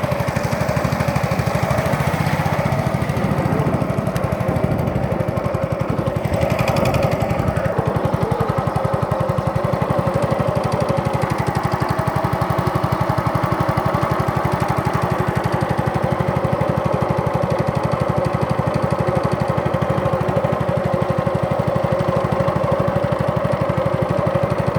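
Small boat engine running steadily at constant speed, a fast, even chugging, with a brief hiss about six seconds in.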